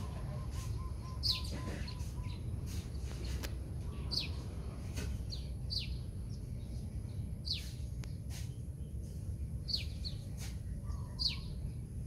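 A bird calling, repeating a short falling chirp every second or two, over a steady low rumble of background noise.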